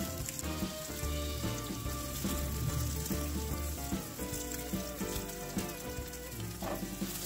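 Oil sizzling and crackling steadily under a cabbage-and-egg fritter frying in a nonstick pan, with background music.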